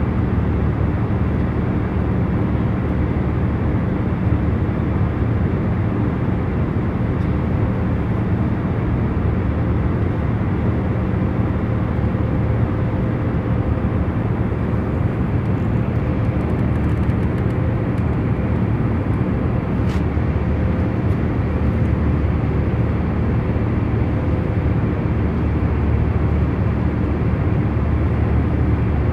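Steady jet airliner cabin noise in cruise: an even, deep rushing drone with a faint low hum running through it.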